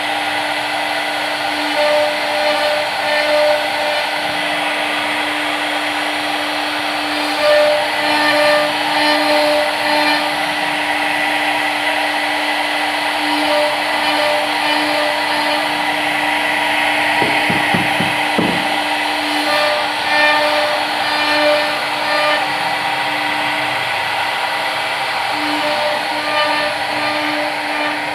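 CNC machine running, with a steady hum under continuous cutting noise and a short run of knocks about two-thirds of the way through.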